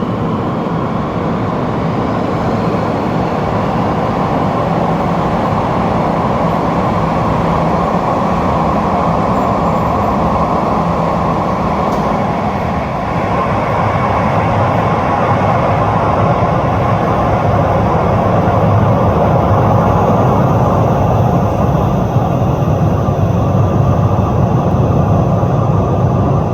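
Mumbai Metro Line 3 train running along an underground station platform: a steady, loud noise of wheels and motors with a faint high whine, growing louder in the second half.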